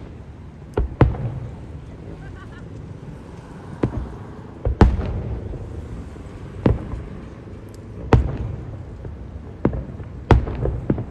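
Fireworks display: aerial shells bursting in a string of sharp booms at uneven gaps, each trailed by a low rumble, with the loudest burst a little before the middle.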